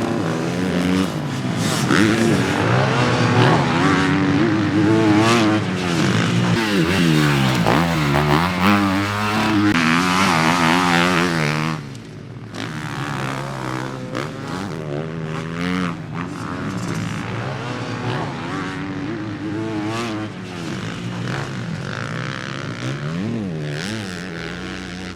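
Motocross dirt bike engines revving up and down through the gears as they ride the track. They are loud for the first twelve seconds or so, then drop suddenly to a quieter level, still rising and falling.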